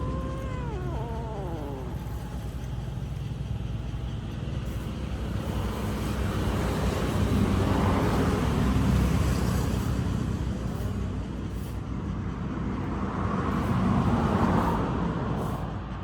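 A steady low rumble that swells twice, about eight and fourteen seconds in, with a long falling animal call in the first two seconds.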